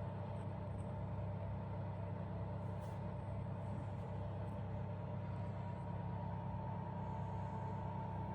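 1800-watt electric fireplace fan heater running, blowing hot air: a steady low hum with a thin whine above it.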